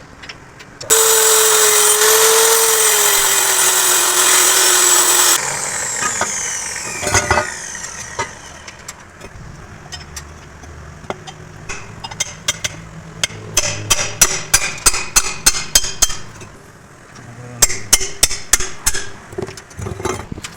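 A power tool such as an angle grinder runs loud for about four seconds with a whine that sags slightly under load, then winds down. Later, quick series of hammer blows on metal come at about three to four a second, with a second short run near the end.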